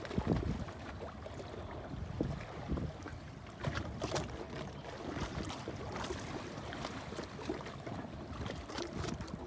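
Wind buffeting a cell phone's microphone, a low uneven rumble with a few scattered clicks from the phone being handled.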